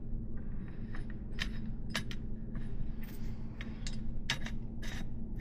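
Small metal clicks and clinks as cone nuts are turned by hand on the threads of a 3/8-inch BMX hub axle, irregular and scattered, over a steady low hum.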